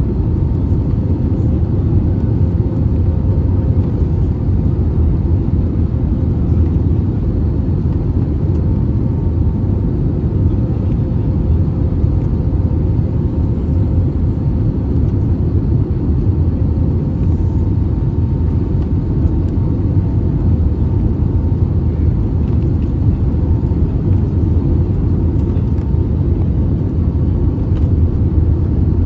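Steady low rumble of cabin noise inside an Airbus A320neo, from its CFM LEAP-1A engines and the airflow over the fuselage, with a faint steady hum above it.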